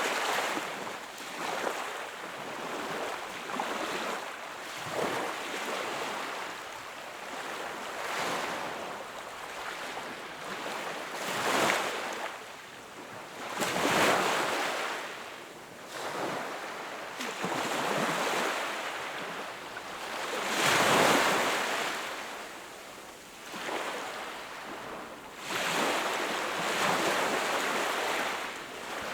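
Sea waves breaking and washing on the shore, the surf swelling and easing every few seconds, with a few louder breakers about 12, 14 and 21 seconds in.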